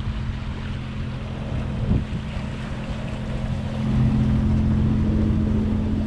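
A sailboat's inboard engine running at a steady pitch, mixed with wind and water rushing past the hull; the hum gets louder about four seconds in.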